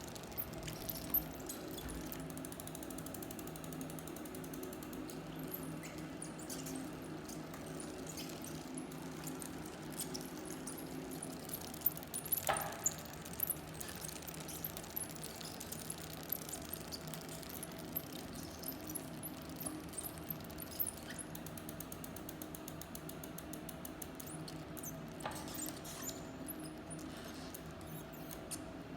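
A bike being pedaled and making an abnormal noise: irregular clicks and squeaks over a steady low hum, with a burst of louder clicks about halfway through.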